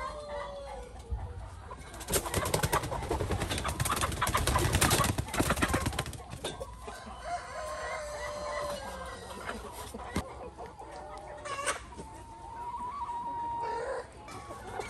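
Chickens clucking, with drawn-out calls, and a louder stretch of rustling noise from about two to six seconds in.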